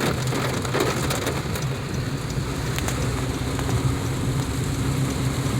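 Inside a moving car: a steady engine and road drone with rain hitting the car, and a few sharp taps of drops.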